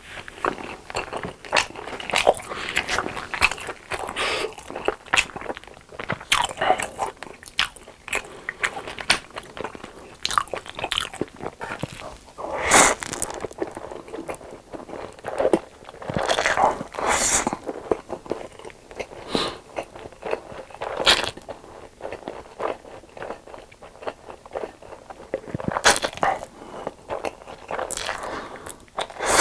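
Close-miked eating sounds: repeated bites, crunches and chewing, irregular throughout, with a few louder crunches.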